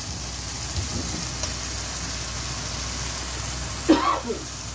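Onion-tomato masala sizzling steadily in oil in a wok, stirred with a spatula that knocks lightly on the pan now and then; the masala is cooked down to the point where the oil separates. A brief voice sound near the end.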